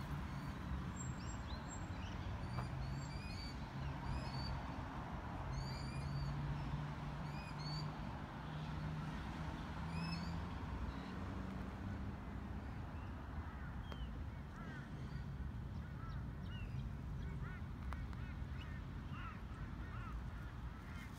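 Birds chirping and calling again and again, over a steady low rumble.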